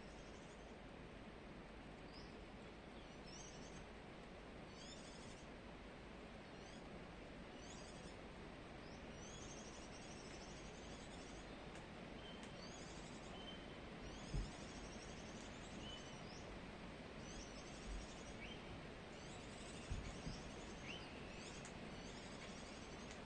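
A pet parrot chirping softly, with short high chirps every second or two and a few brief lower whistles, over a steady low hiss. A few soft thumps come in the second half.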